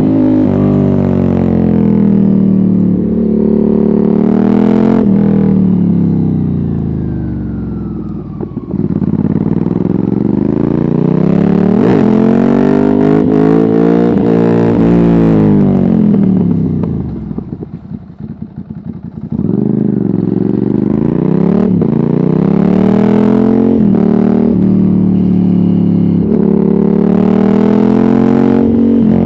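Ducati Hypermotard 796's air-cooled L-twin through a de-catted Termignoni exhaust with no dB killer, revving hard and rising and falling through the gears. About eighteen seconds in the revs drop away with a run of crackling on the overrun before it pulls hard again.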